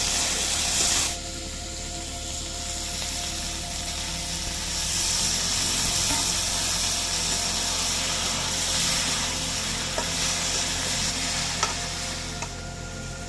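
Food sizzling as it fries in a hot pan. The hiss drops about a second in, swells again around five seconds, and eases near the end, with a few light clicks.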